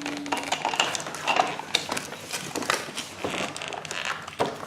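Small plastic toy pieces and packaging being handled: irregular light clicks, knocks and rustles.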